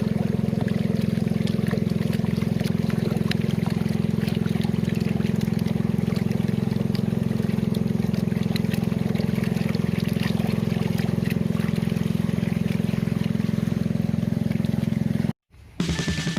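A small boat's motor running steadily with a fast even pulse and water noise, cutting off abruptly near the end; music begins just after.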